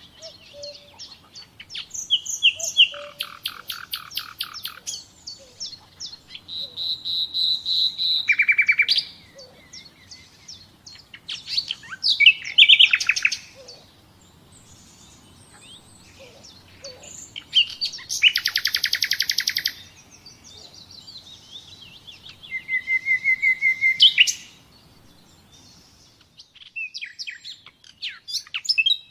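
Songbirds singing: a run of varied high-pitched phrases, fast trills and quickly repeated chirps, separated by short pauses.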